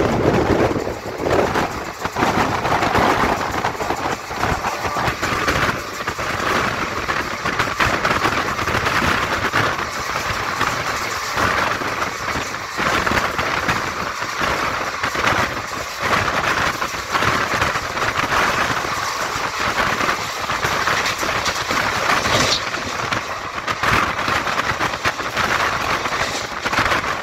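Express train running at high speed, about 110 km/h, heard from an open coach door: a steady rush of wheels on the rails and wind, with many short clatters of the wheels over the track.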